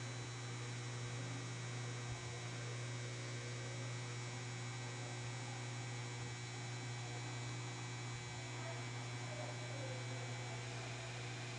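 Steady low electrical hum with faint hiss under it, unchanging throughout.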